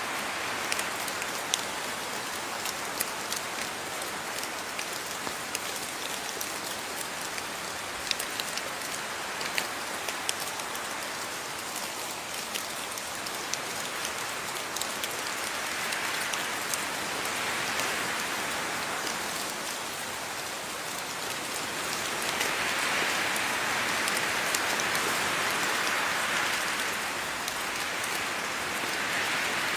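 Steady rainfall, a continuous hiss with individual drops ticking through it; it swells a little louder twice in the second half.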